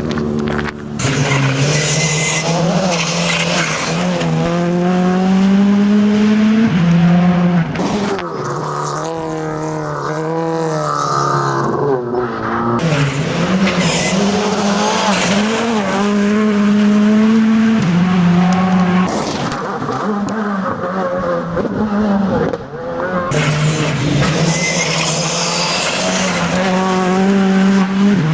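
A rally car engine revving hard on a gravel stage. The pitch climbs and drops repeatedly through gear changes and lifts, with a few brief sharp breaks in the sound.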